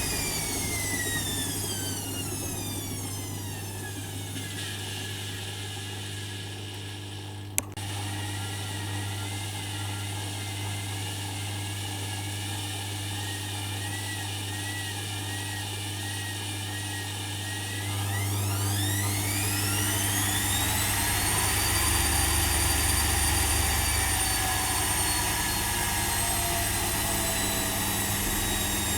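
Privileg Dynamic 4612 washing machine spinning: the motor's whine falls as the drum slows, a single click comes about seven and a half seconds in, and from about eighteen seconds in the whine climbs steeply as the drum speeds up again, then holds high.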